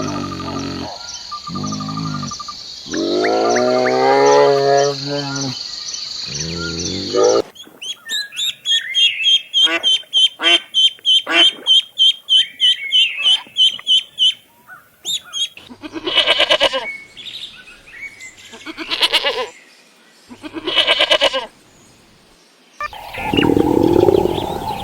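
A string of different animal calls, one kind after another with abrupt changes. Drawn-out pitched calls come first, then a run of short repeated calls for several seconds, then three separate calls spaced a couple of seconds apart.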